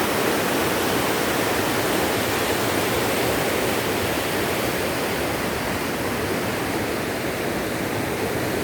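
River water rushing over rocks: a steady, even rush that barely changes.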